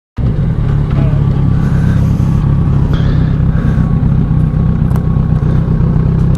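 Motorcycle engine running at a steady pitch, loud and even, with no revving.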